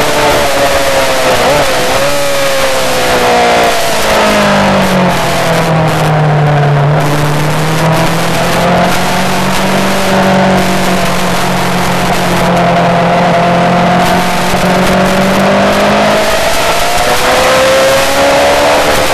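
Yamaha R6 inline-four sport-bike engine running hard on track. The engine note falls about four seconds in, holds lower through a long stretch, and climbs again near the end.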